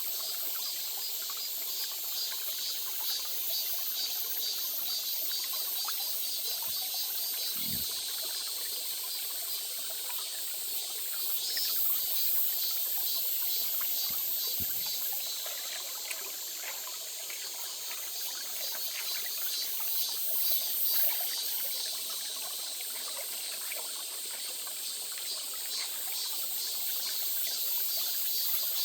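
Small stream trickling and babbling steadily, with a couple of brief low thumps.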